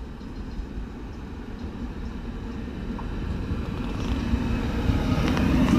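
Alstom Régiolis regional multiple unit approaching through the station, its low rumble growing steadily louder, with higher-pitched wheel-on-rail noise building in about four seconds in.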